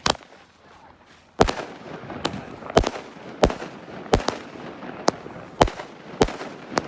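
Multi-shot firework cake ('Galaktika', 49 shots) firing: a single sharp shot, a pause of over a second, then a string of shots about every half second to second.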